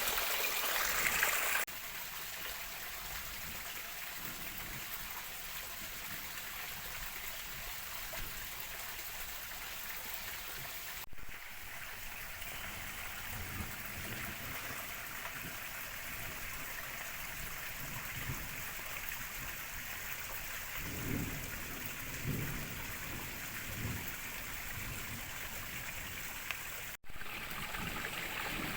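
Steady rain falling, mixed with the rush of a river's running water. The sound jumps abruptly in level a few times.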